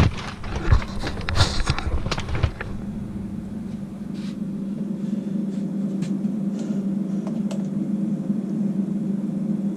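Clicks and knocks of objects being handled for about the first two and a half seconds, then a steady low hum with a few faint ticks.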